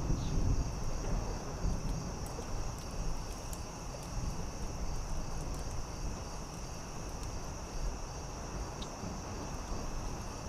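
Steady high-pitched chorus of night crickets, with a low rumble underneath and a few faint, scattered pops of a crackling campfire.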